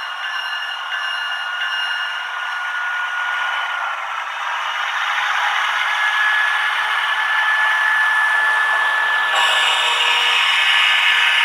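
H0-scale model train running on the layout: a steady whirring rush of small wheels on rails and motor hum, with a thin whine that steps up in pitch about five seconds in.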